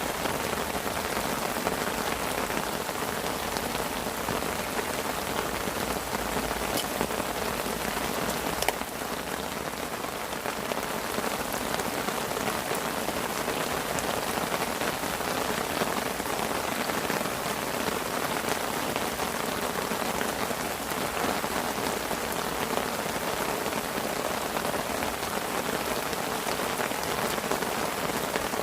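Heavy rain pattering densely and steadily on a fishing parasol overhead. One sharp tap stands out about nine seconds in.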